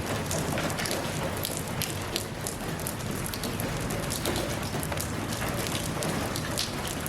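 Steady rain falling, with many individual drops pattering and ticking on a hard surface over an even hiss.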